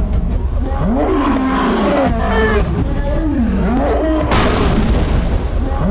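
A cat yowling repeatedly in long meows, each rising and then falling in pitch, over a steady low rumble, with a sharp hit about four and a half seconds in.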